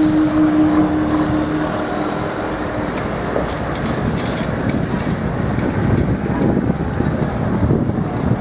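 Road vehicles passing over the crossing, a steady rumbling traffic noise. A steady hum fades out over the first two seconds or so.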